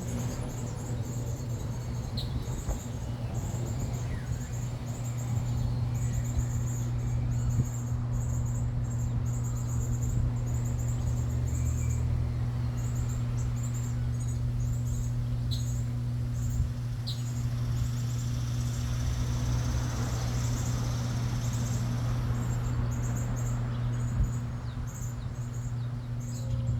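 Small birds chirping in many short, high notes over a steady low hum.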